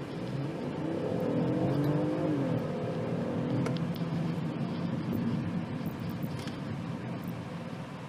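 BMW 218i Gran Coupe's 1.5-litre turbocharged three-cylinder engine pulling under acceleration. Its pitch rises for a second or two, then drops at a gear change and settles to a steady run.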